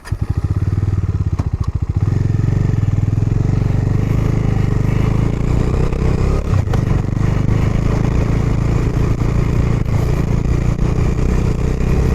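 Motorcycle engine firing up after coasting with it switched off: for about two seconds its separate firing pulses are heard, then it settles into a steady run as the bike rides on.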